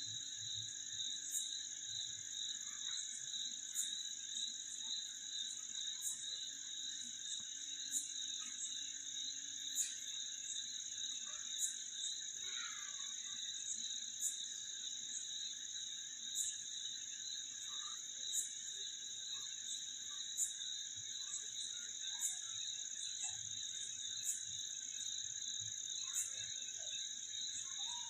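Night-time chorus of insects and frogs: steady high-pitched trilling at several pitches, a short sharp call about every two seconds, and scattered fainter calls.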